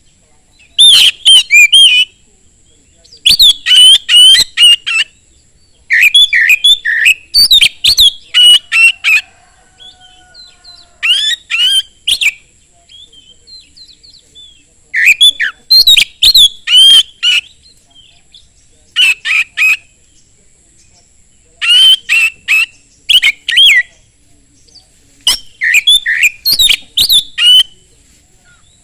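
Oriental magpie-robin singing loudly in repeated bursts: rapid runs of sharp, whistled and chattering notes, each phrase lasting a second or two, with short pauses between.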